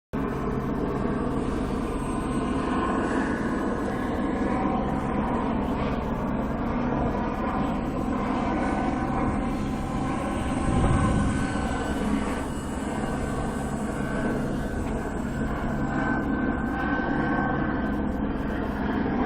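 Aircraft engine noise, a steady drone that swells briefly about eleven seconds in.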